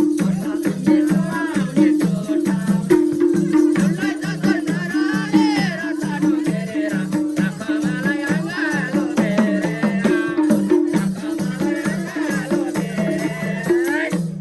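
Nepali dohori folk music played live: held instrumental notes moving in a steady rhythm, with a shaker-like rattle and hand percussion beating throughout.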